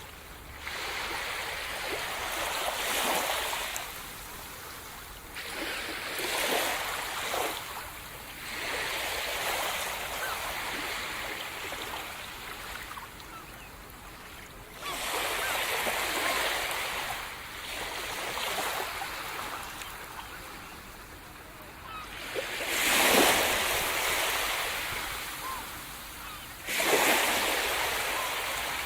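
Sea surf: waves breaking and washing up the shore in repeated surges every few seconds, with the two biggest breakers about two-thirds of the way through and near the end.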